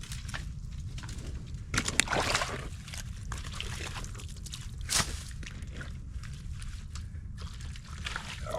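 Water sloshing and splashing as sticks and mud are pulled out of a beaver dam by hand, over a steady low rumble. The loudest splashes come about two seconds in and again about five seconds in.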